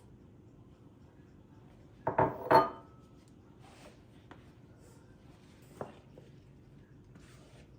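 Kitchenware clinking: two ringing clinks close together about two seconds in, then a lighter knock near six seconds, with faint handling rustles between.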